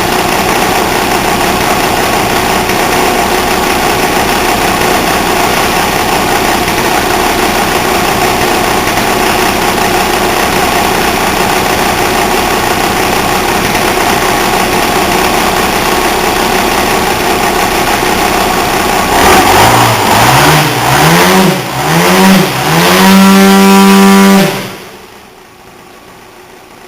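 An engine idling steadily, then revved in several quick blips with the pitch rising and falling, held at higher revs briefly, and then shut off abruptly.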